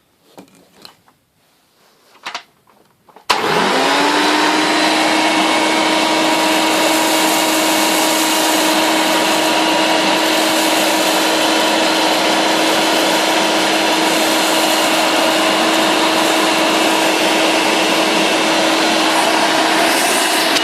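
Hoover Elite II U4617 upright vacuum cleaner switched on about three seconds in after a few light handling knocks; the motor spins up with a quick rising whine and then runs at a steady pitch with a loud airy rush.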